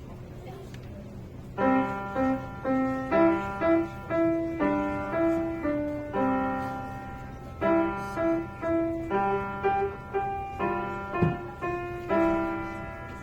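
Background piano music: a melody of separate notes, each fading after it is struck, coming in about a second and a half in after a faint steady background.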